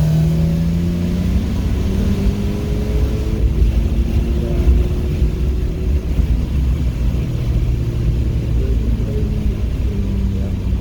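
Car engine pulling on a wet race track, its pitch rising over the first couple of seconds and then holding fairly steady, over a heavy low rumble of tyres and road.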